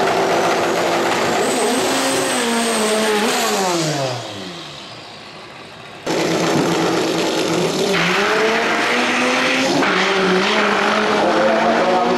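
Volkswagen Gol drag car's engine at full throttle, its pitch climbing and dropping at gear changes. The pitch falls and the sound fades away about four seconds in, then cuts back in abruptly near six seconds with another hard run climbing through the gears.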